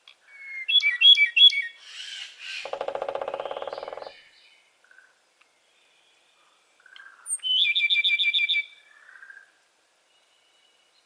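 Brown-eared bulbul calling. There are a few loud, sharp notes about a second in, then a harsh buzzy call lasting about a second and a half. Around eight seconds in comes a fast run of about ten notes a second.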